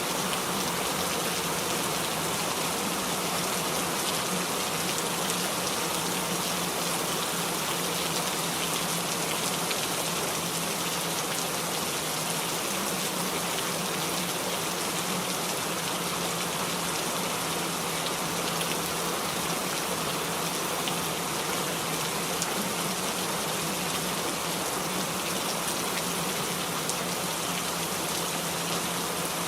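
Steady, unbroken rainfall.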